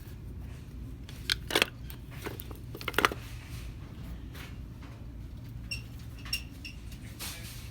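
Store ambience with a steady low hum. Hard plastic or packaged items are picked up and set down, giving a few sharp clicks and knocks about a second and a half in and again about three seconds in. Three short electronic beeps come near the end.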